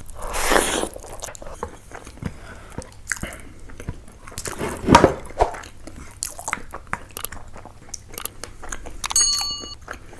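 Close-miked eating: fish curry and rice being bitten and chewed, with many small wet mouth clicks and smacks in an irregular stream.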